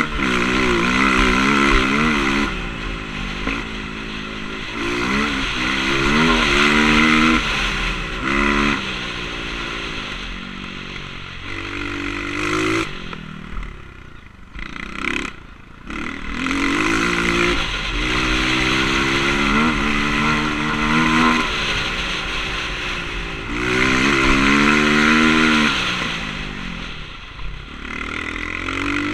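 Motocross bike engine revving hard and easing off over and over, its pitch repeatedly climbing and dropping as the rider works the throttle and gears. The engine goes quiet briefly about halfway through, then picks up again.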